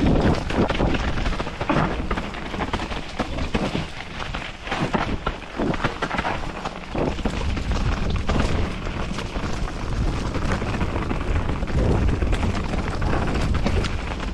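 Canyon Spectral AL6 mountain bike descending a wet enduro trail: tyres rolling over mud and rock, with repeated knocks and rattles from the bike over bumps and a steady low rumble underneath.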